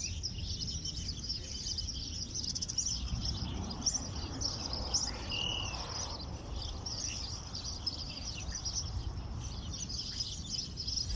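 Several small songbirds chirping and twittering in high, rapid trills, with one clearer whistled note about five seconds in, over a low outdoor rumble.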